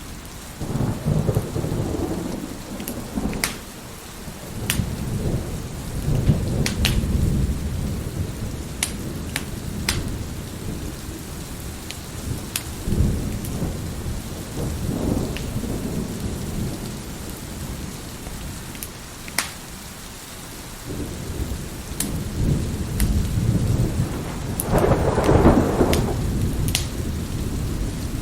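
Steady rain with repeated low rolls of thunder, the strongest near the end, over a crackling wood fire whose sharp pops come every second or so.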